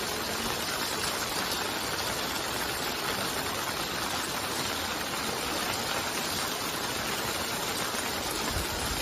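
Steady rushing noise of heavy rain and running floodwater, with a brief low rumble near the end.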